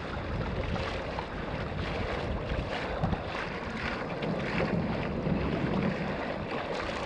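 Steady wind noise on the microphone over water splashing and washing against a fishing kayak under way on open sea.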